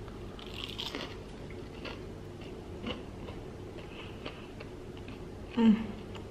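Close-up chewing and mouth sounds of a person eating a mouthful of food, with a few faint clicks. Near the end comes a short voiced sound, the loudest moment.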